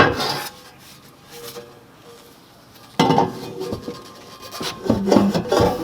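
Metal exhaust piping scraping and clanking against the car's underside while it is worked into position. There is a knock at the start and a quiet stretch, then the scraping and clatter pick up suddenly about three seconds in.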